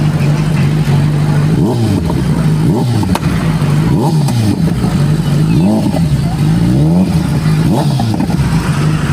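Sport motorcycle engine holding a steady speed, then revved up and down in quick blips, about one a second.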